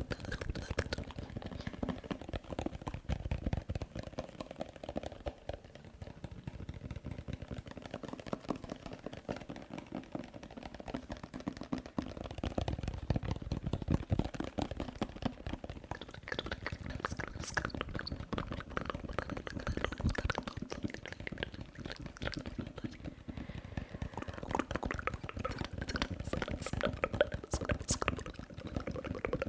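Close-miked wet mouth sounds: a rapid, dense run of lip and tongue clicks and smacks.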